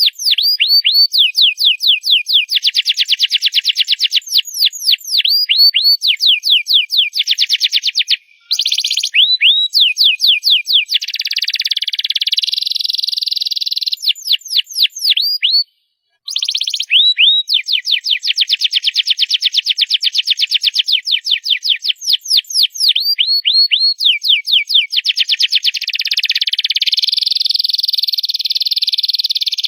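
Canary singing loudly: rapid runs of high, downward-sweeping notes alternating with long rolling trills, cut off suddenly twice, about eight seconds in and again briefly about sixteen seconds in.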